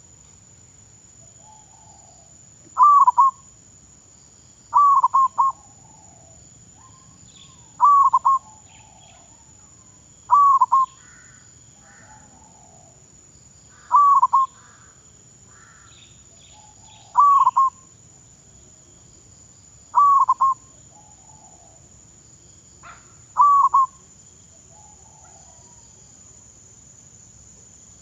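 Zebra dove cooing: short clusters of quick falling notes, about eight of them, repeating every two to three seconds. Fainter bird calls come in between, over a faint steady high whine.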